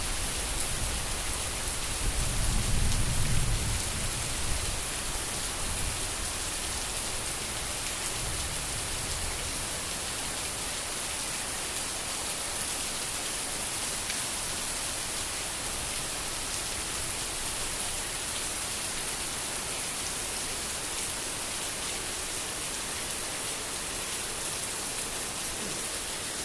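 Heavy rain falling steadily. A low rumble swells about two to four seconds in, then dies away over the next few seconds, which fits a gust of wind.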